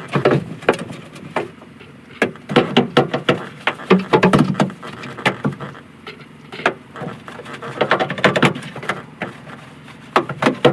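Irregular knocks, clicks and clattering handling noise, coming in clusters about two and a half, four and eight seconds in.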